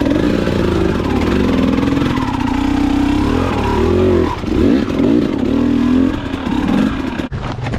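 Dirt bike engine running at low revs with the throttle blipped several times, the pitch rising and falling in quick swoops around the middle; the sound dips out for an instant near the end.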